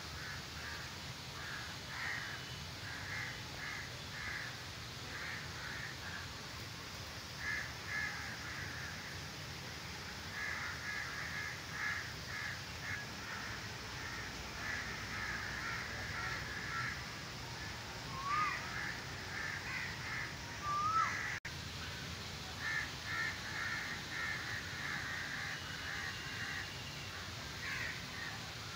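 Birds calling: short calls repeated in quick runs, with two brief rising whistles about two-thirds of the way through.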